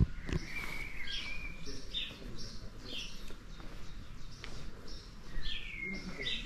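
Songbirds singing: a run of short, high chirps that fall in pitch, about two a second, with a longer falling whistle near the end.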